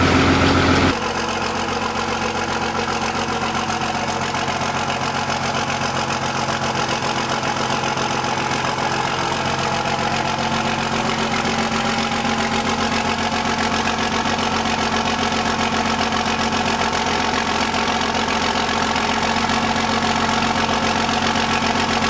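Cold 2002 Dodge Ram 2500's 5.9-litre Cummins turbo-diesel inline-six idling steadily as it warms up after a start at about 3 °F. About a second in the sound drops suddenly to a quieter, even idle.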